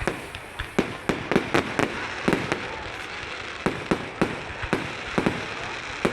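Fireworks display: an irregular string of sharp bangs, some coming in quick pairs and runs, about sixteen in all, over a steady background hiss.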